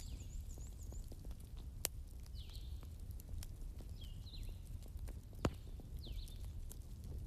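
Fire crackling in a fireplace: a steady low rumble with frequent small crackles and two sharp louder pops, about two seconds in and near the middle. Faint high chirping calls recur every second or two behind it.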